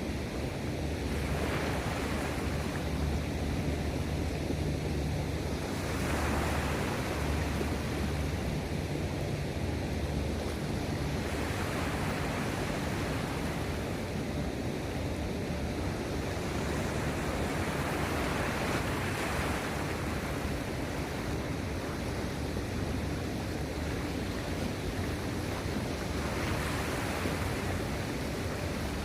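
Sea waves washing in against the shore, swelling and fading every five or six seconds, over a steady low rumble of wind on the phone's microphone.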